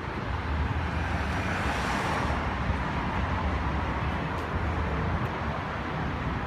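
Steady road traffic noise with low rumble, swelling as a vehicle passes about two seconds in.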